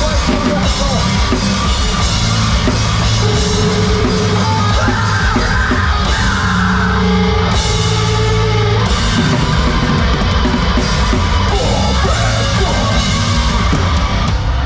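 Live heavy metal band playing loudly, with drum kit, amplified instruments and vocals. The music stops abruptly at the very end.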